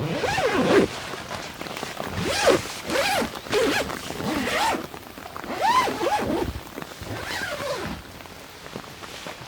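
Tent zipper being pulled in a series of short raspy strokes, about seven of them, each sweeping up and down in pitch, over light rain.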